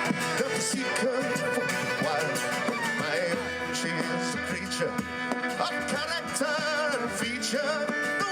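Instrumental folk music: a melody line with quick ornaments and vibrato over steady held notes.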